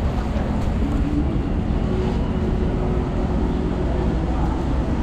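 Steady low rumble and hum from a waiting passenger train standing in the station.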